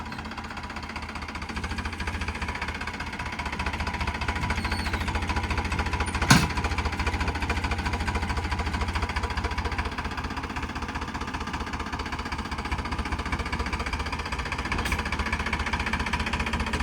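Tractor engine running steadily with a fast low pulsing, picking up a little after about two seconds. A single sharp metallic knock sounds about six seconds in.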